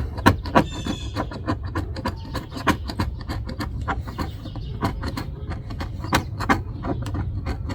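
A hand tool scraping and picking old adhesive off a car's quarter-window opening: irregular scrapes and clicks, several a second.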